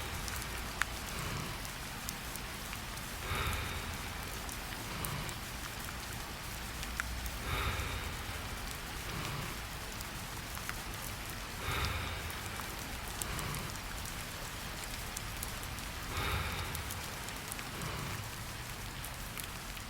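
Steady rain with scattered sharp drop ticks. A soft, slow breath swells through it about every four seconds.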